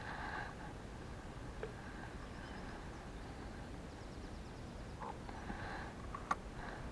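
Quiet riverside ambience with faint birdsong chirping on and off over a steady low background hiss, and one sharp click about six seconds in.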